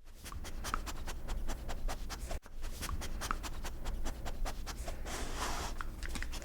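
A puppy sniffing right at the microphone: quick, scratchy sniffs several times a second over a low rumble of handling noise, with a brief break about two and a half seconds in.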